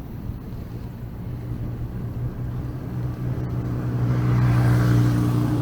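A motor vehicle's engine hum and tyre noise growing steadily louder as the vehicle approaches on the road.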